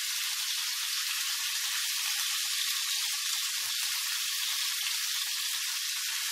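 Chicken fillets sizzling steadily in hot olive oil in a frying pan as they begin to brown.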